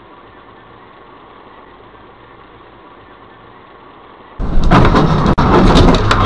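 Faint steady engine and road hum of a car heard from a dashcam. About four seconds in it gives way abruptly to a much louder, rough rumbling noise full of sharp knocks.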